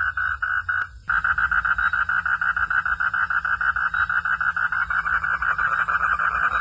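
Frogs calling in a steady run of rapid pulses. A sharp click and a brief dropout come just before a second in, after which the pulsing is faster and denser.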